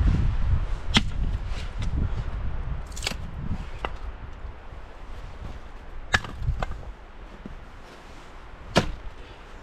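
A handful of sharp knocks and clicks at irregular intervals, over a low rumble that fades after the first few seconds.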